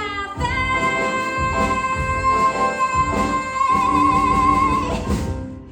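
A singer holds one long, loud final note of a musical theatre song over instrumental accompaniment. The note starts about half a second in and takes on vibrato near its end before cutting off.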